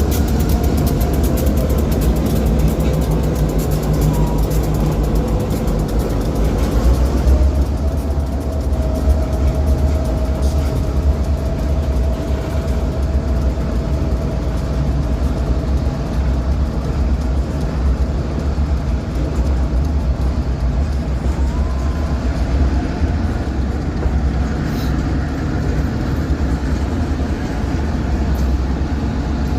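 Diesel freight locomotive engine running under power, with a whine that rises in pitch about seven seconds in and then holds steady.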